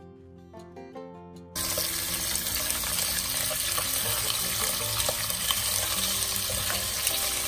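Quiet background music, then about a second and a half in a loud sizzle starts suddenly as quail go into a little hot oil in a pot, and carries on as they begin to fry.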